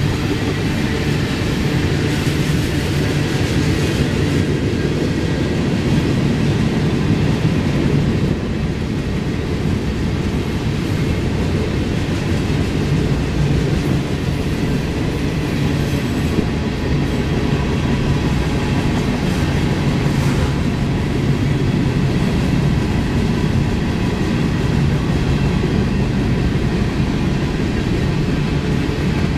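Freight train cars rolling past close by: a steady, loud rumble of steel wheels on rail with some clickety-clack.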